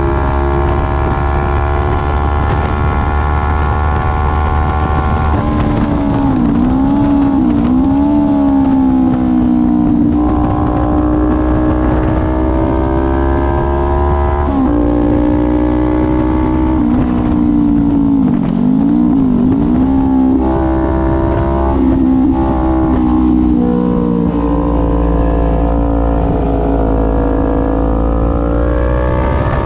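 Kawasaki Ninja 400 parallel-twin engine under hard acceleration on a race track. It climbs in pitch through the gears, with two spells of braking and downshifting, about a quarter and about two thirds of the way in, where the pitch falls and wobbles with throttle blips. A steady low rumble of wind noise runs underneath.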